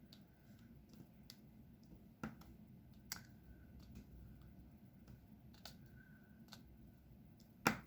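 Faint, scattered clicks and taps of a diamond painting pen placing resin drills on the canvas, with a sharper click near the end.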